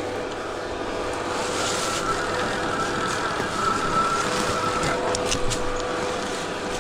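Stark Varg electric dirt bike riding, its motor giving a steady whine over the noise of tyres on the trail, with a few knocks near the end.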